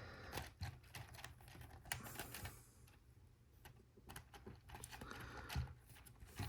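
Faint, scattered clicks and taps of plastic Lego Technic pieces being handled and pressed together.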